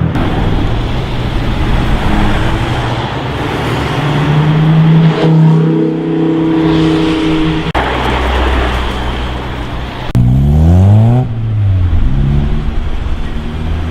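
High-performance car engines running and accelerating, in a run of short clips that cut abruptly from one to the next. About ten seconds in, one engine revs up quickly, its pitch climbing sharply.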